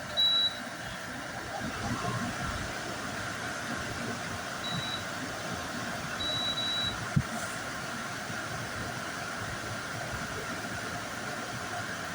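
Frigidaire dehumidifier control panel beeping as its buttons are pressed: a short high beep near the start, another about five seconds in, and a longer one a little after six seconds. Beneath them the dehumidifiers' fans and compressors hum steadily.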